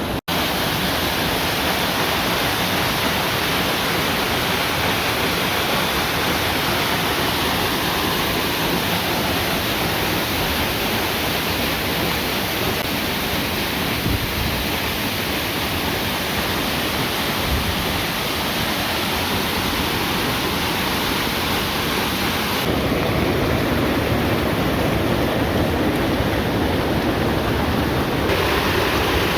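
Waterfall rushing: a steady, loud hiss of falling water with no break, its tone shifting slightly a few seconds before the end.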